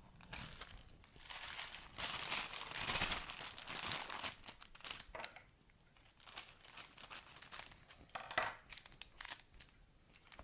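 Plastic bags of toy building bricks being torn open and crinkled, in irregular rustling bursts, busiest a couple of seconds in and with a sharp crackle near the end.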